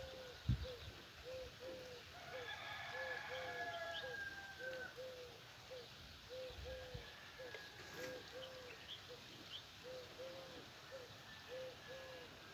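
Morning birdsong: a steady run of short, low cooing notes repeating two or three times a second. A rooster crows from about two to five seconds in, and small birds give scattered high chirps.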